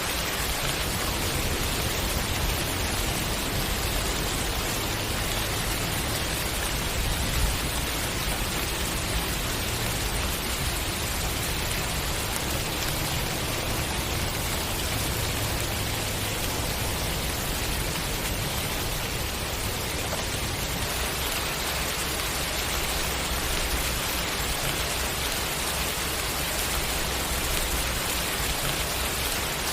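Steady rain falling, an even hiss of many drops hitting surfaces, with a low rumble underneath.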